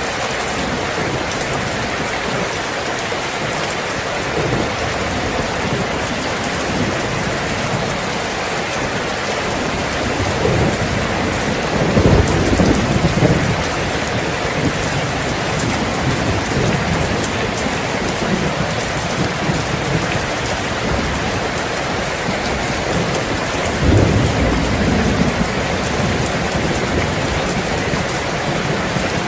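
Steady heavy rain falling, with thunder rumbling twice: a longer roll about a third of the way in and a shorter one a little past the three-quarter mark.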